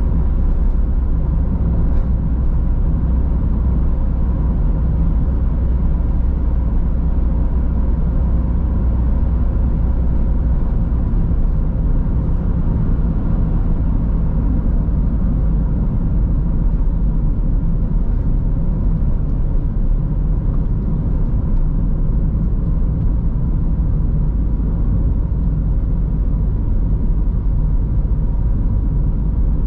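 Road noise from inside a moving car: a steady low rumble of tyres and engine at cruising speed, with a faint steady tone throughout.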